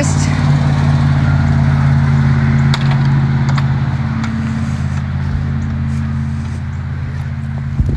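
An engine running steadily at one speed: a low, even hum with a few faint ticks.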